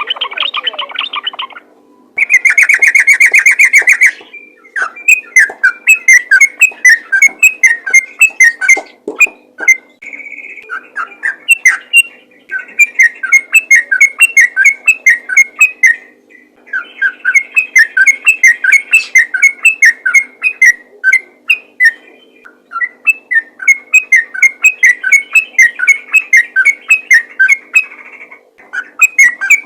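Yellow-vented bulbul (trucukan) singing in fast, chattering phrases of quick notes, each phrase lasting a few seconds, repeated with short pauses between them.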